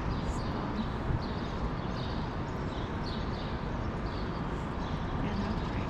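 Sparrows chirping in short, high calls scattered throughout, over a steady low background rumble of city noise.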